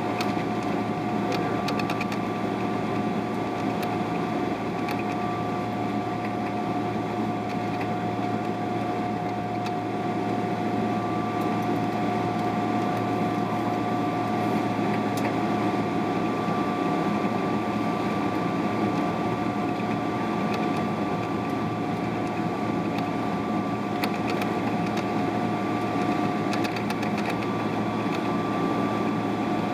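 Steady cabin noise inside a Boeing 777-300ER: the jet's engines and air-conditioning running as an even hum and hiss, with two constant whining tones and no change in level.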